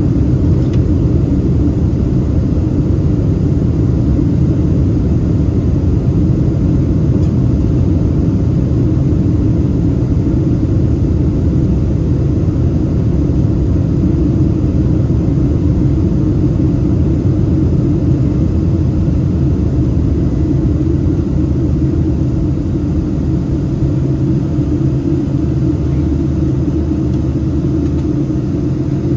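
Steady, loud rumble of a Boeing 767-300ER's jet engines during takeoff, unbroken and even throughout.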